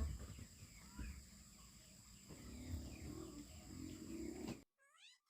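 Low outdoor background with a few dull thumps and faint repeated chirping. Near the end it cuts out, and a cat starts meowing with drawn-out rising-and-falling meows.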